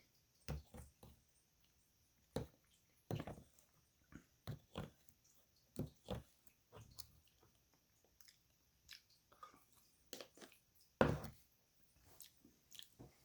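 A person eating a spoonful of acai bowl: faint, irregular chewing and mouth sounds, a short click every second or so, with one louder one about eleven seconds in.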